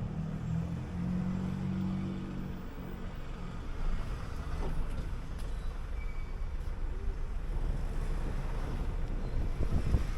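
City bus engine running with steady road rumble; the engine's hum stands out for the first two or three seconds, then settles into an even low rumble.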